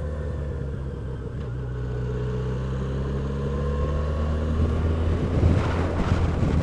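Motorcycle engine running steadily while riding, slowly getting louder. Wind noise buffets the microphone near the end.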